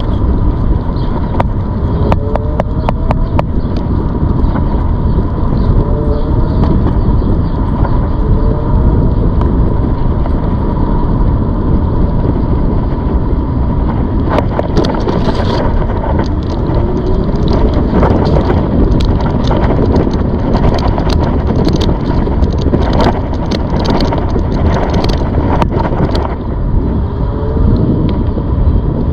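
ZOOZ electric bike being ridden: a loud, steady rushing noise with a thin steady whine under it. Short rising tones come every couple of seconds in the first half, and scattered clicks and rattles run through it, thickest past the middle.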